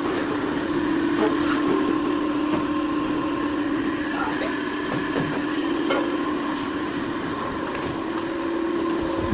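Steady mechanical hum with a few light clicks.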